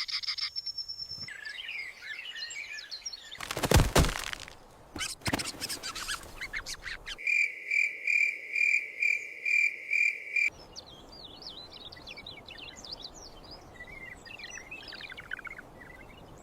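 Small birds chirping. Partway through comes a brief loud burst of noise, then a second, softer one. After that there is a run of about seven evenly spaced calls, roughly two a second, before scattered chirping resumes.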